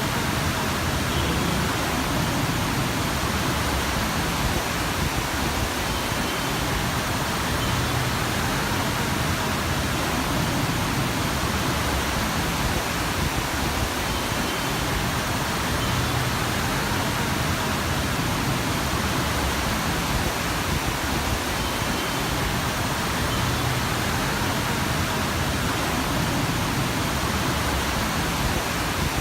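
Heavy monsoon rain: a steady, even rushing noise.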